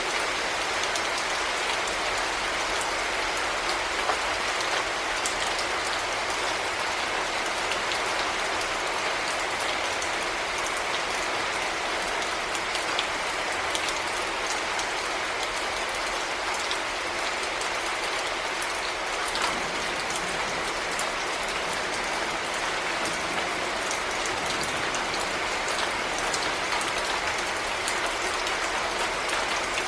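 Heavy rain falling steadily, a dense even hiss with individual drops ticking through it.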